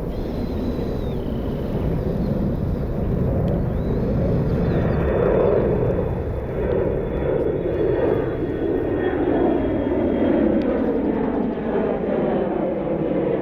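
Jet airliner engines, a dense rushing roar that swells about four seconds in and stays strong, with a faint high whine over it.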